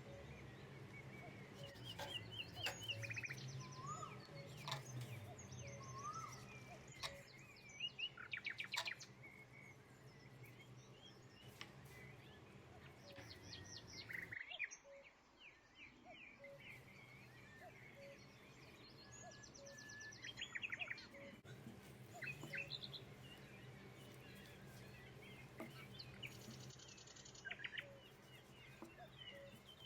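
Birds chirping and trilling in repeated short calls, with a low steady hum underneath.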